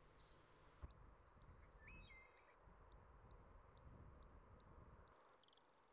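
Faint songbird calls in a forest: a run of short, high chirps about two or three a second, with a few whistled notes about two seconds in. Near the end a different set of short buzzy notes follows.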